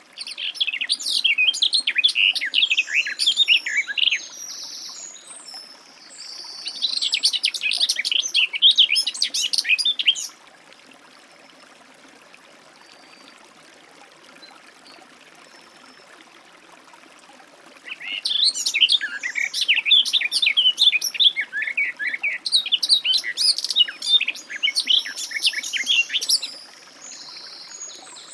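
Garden warbler singing: three long, fast, warbling phrases. The last lasts about eight seconds and comes after a pause of several seconds.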